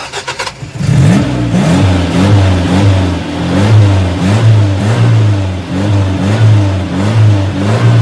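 A car engine revving over and over, its pitch climbing and falling back about every two-thirds of a second.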